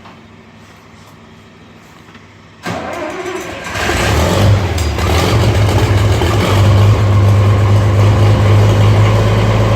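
International Harvester 706 tractor engine being cold-started without its block heater plugged in. After a quiet pause the starter cranks about three seconds in, the engine catches a second later, and it then runs loud and steady.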